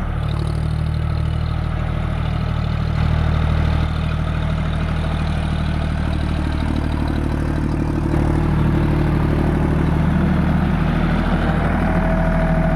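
John Deere 5050D tractor's three-cylinder diesel engine running steadily, growing a little louder about eight seconds in.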